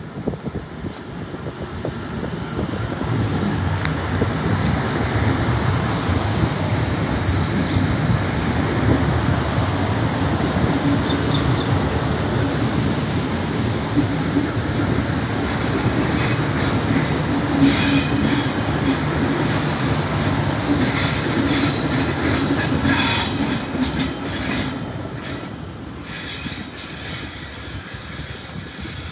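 Train passing close on the tracks, building up and then fading away. A thin high wheel squeal runs through the first several seconds, and the rapid clicking of wheels over rail joints comes in the second half.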